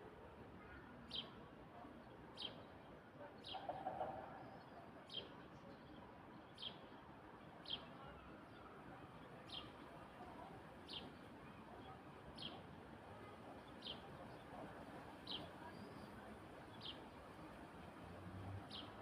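A bird repeating a single short, high, downward-sliding call about once every second or so, faint against a quiet background hiss.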